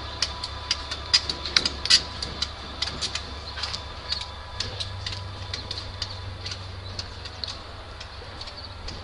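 Two diesel locomotives rolling away over jointed track. Their wheels make irregular sharp clicks and clanks that grow fainter and sparser as they recede, over a steady low engine rumble.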